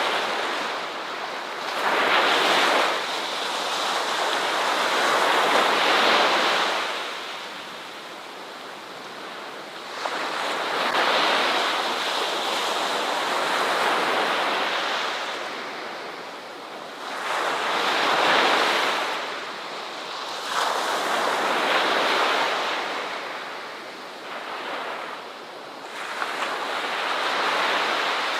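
Ocean waves breaking and washing up a beach, the surf swelling and ebbing in repeated surges every few seconds.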